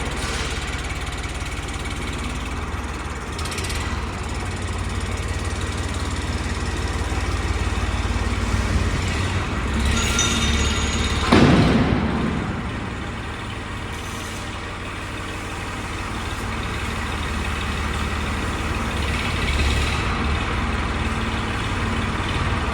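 A motor vehicle's engine running with a steady low rumble. About eleven seconds in there is one loud sound that falls in pitch.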